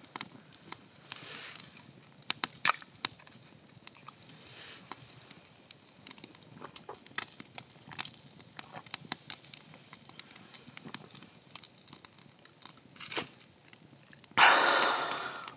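Scattered small clicks and crackles at irregular intervals, with a louder burst of noise lasting about a second near the end.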